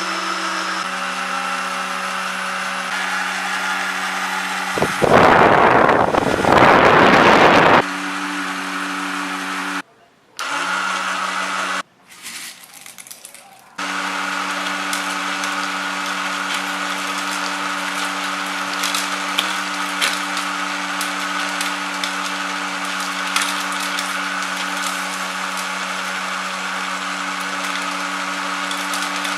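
An industrial machine running with a steady motor hum, broken by abrupt cuts, and a loud rushing noise lasting about three seconds near the start.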